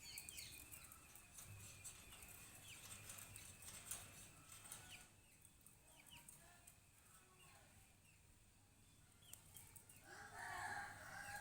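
Faint bird calls: short, high, falling chirps repeated every second or so, with a louder, lower call about ten seconds in.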